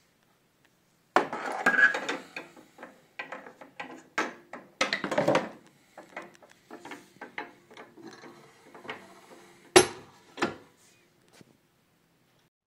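Small shovel scraping ash out of the firebox of a Plamen Trenk wood stove: a run of irregular scrapes and rubs, with two sharp knocks near the end.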